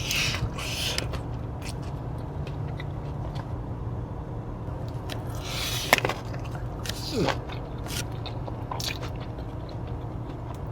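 Close-miked chewing of a crunchy burger, with wet, crackly mouth sounds. There are bigger crunchy bites right at the start and again about halfway through, over a steady low hum.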